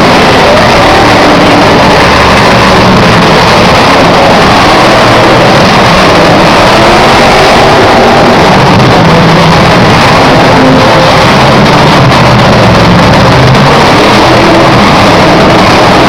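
Monster truck engines running and revving, very loud and steady throughout, with pitch that rises and falls as they work.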